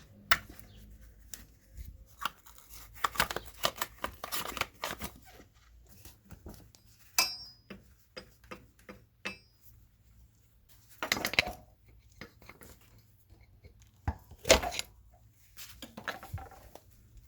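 Workshop handling sounds: irregular metallic clicks, clinks and scrapes of hand tools and engine parts being worked on, with a brief metallic ring about seven seconds in and louder scraping rattles around eleven and fourteen seconds.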